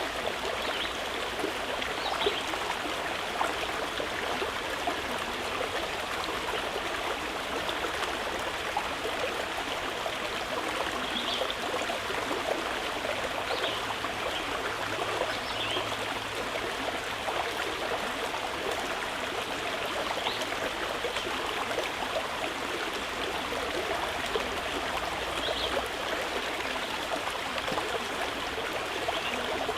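A stream of running water flowing steadily, with a continuous, even rush and trickle.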